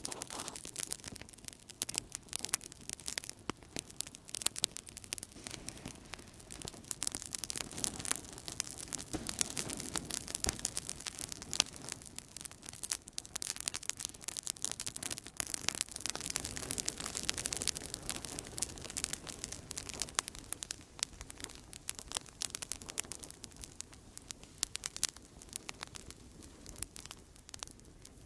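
Outdoor campfire crackling steadily: many small sharp pops and snaps over a soft hiss of burning wood.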